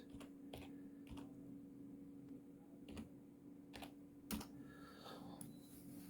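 A few separate computer keyboard key presses, spread unevenly over the few seconds, over a faint steady hum.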